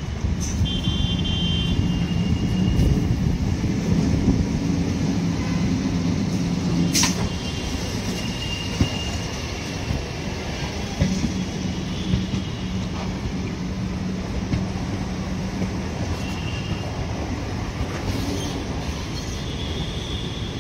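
Suburban electric multiple-unit train passing close by: a steady rumble of steel wheels on the rails, a little louder in the first third. Sharp clicks from the wheels crossing rail joints cut through it, the loudest about seven seconds in, along with brief faint high wheel squeals.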